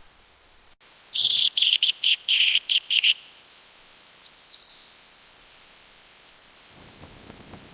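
A bird calling: a quick run of about eight loud, high notes over two seconds, stopping abruptly, followed by faint scattered calls.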